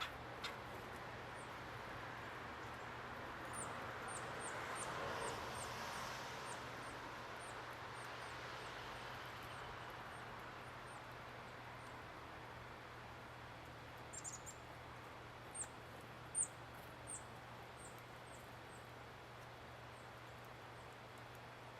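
Small songbirds giving series of short, very high, thin call notes, about two to three a second, in two separate runs. A soft rush of background noise swells and fades early on, under a steady low hum.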